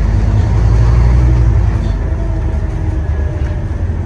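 Scania N230UD Omnicity double-decker bus's diesel engine running under way, heard from on board: a deep, loud rumble that is strongest in the first second and a half, then eases off slightly, with a faint steady whine above it.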